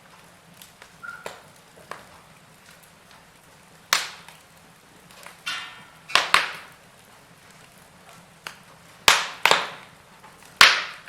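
Wood fire crackling in a fireplace: light crackles with about six sharp, loud pops, two of them in quick pairs, and a short hiss about five and a half seconds in.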